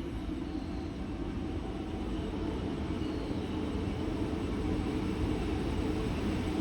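A train running by with a steady low rumble that slowly grows louder.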